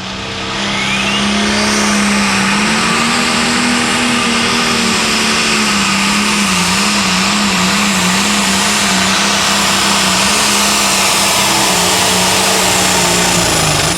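Turbocharged diesel pulling tractor running at full throttle under load during a pull. The engine note climbs about a second in, holds steady with a wavering pitch midway, and drops away near the end as the run finishes.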